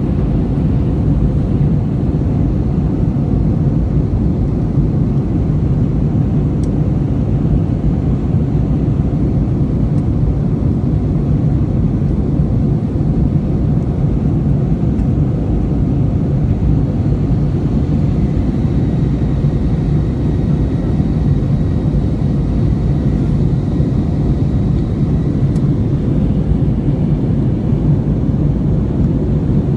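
Steady low rumble of airliner cabin noise in flight, with a faint thin high tone that comes in past the middle and stops a few seconds later.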